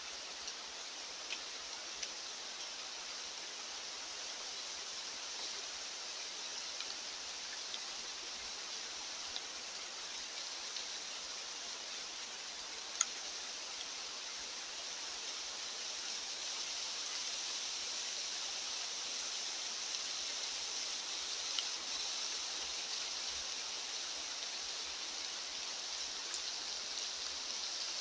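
Steady outdoor hiss of natural ambience, slowly swelling a little louder, with a few faint ticks scattered through it.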